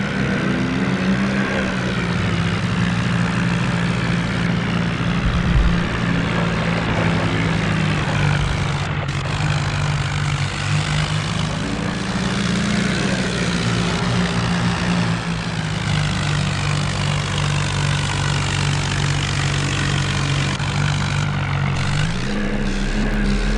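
Tractor diesel engine running steadily, its pitch shifting a little now and then.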